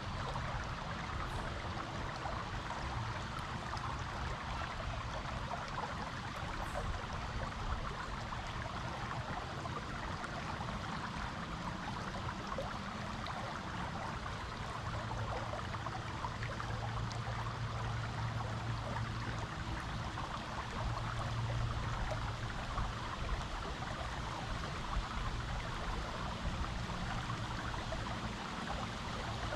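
Creek water flowing steadily over rocks, an even, continuous rush with trickling.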